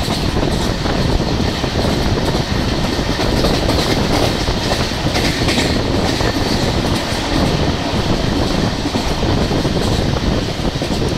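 Passenger train running along the track, heard from aboard: a steady, loud rumble of wheels on rails with light clatter.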